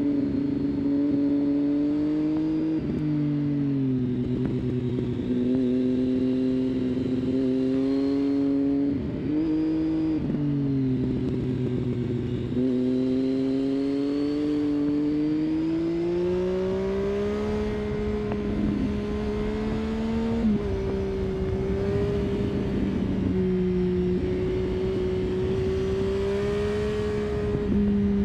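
Triumph Street Triple's three-cylinder engine through an aftermarket exhaust, pulling and easing off through the bends. The pitch drops a few times and climbs slowly for several seconds in between, over wind rush.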